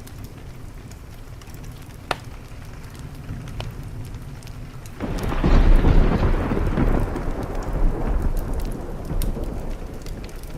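Rain falling steadily with a wood fire crackling, one sharp pop about two seconds in. About five seconds in, a loud thunderclap breaks into a long rumble that slowly fades.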